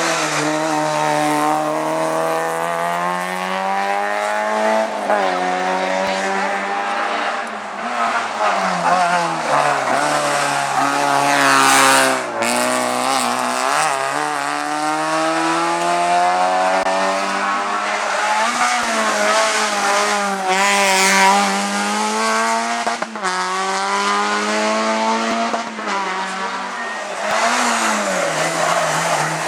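Hillclimb race car's engine revving hard, its pitch repeatedly climbing and dropping as it accelerates, shifts gear and slows for corners.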